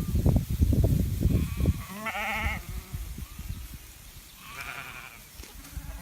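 Sheep bleating twice with a wavering call, one about two seconds in and a second about four and a half seconds in. A low rumbling noise fills the first two seconds.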